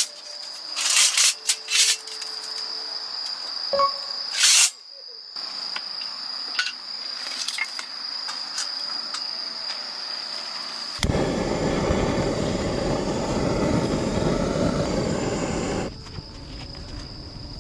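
Insects trilling steadily at a high pitch. Several short, loud, sharp noises come in the first five seconds, and a loud, even rushing noise starts and stops abruptly in the second half.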